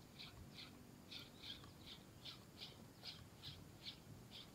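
Faint, evenly repeated short high calls of a bird, a little over two notes a second, over near silence.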